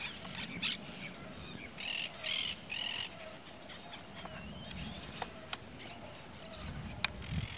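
Birds calling: three short, high calls close together about two seconds in, then a fainter chirp, with a few sharp clicks later on.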